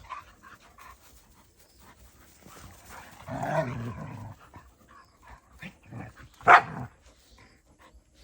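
Dogs playing together, with a longer stretch of scuffling and dog noise about three seconds in and one sharp bark about six and a half seconds in.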